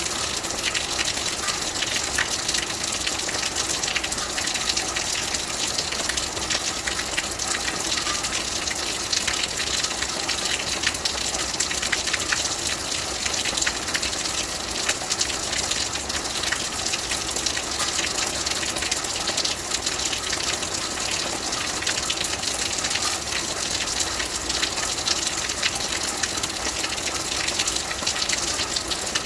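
Steady rain falling: a dense, even hiss made of many small drop ticks, unbroken throughout.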